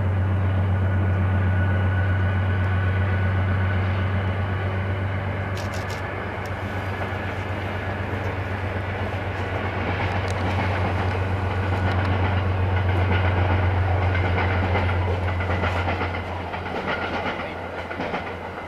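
Diesel locomotive pulling passenger coaches past: a steady low engine drone, with the rumble and clickety-clack of wheels on rail growing louder as the coaches go by. Near the end the drone drops away and the sound fades.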